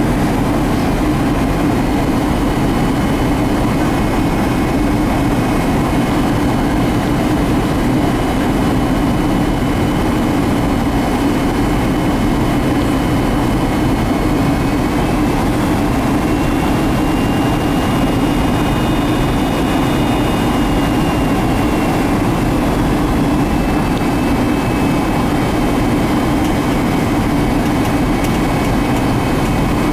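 Steady jet engine and airflow noise of a Boeing 757-200, as heard inside the cabin, with faint high whining tones that drift slightly in pitch.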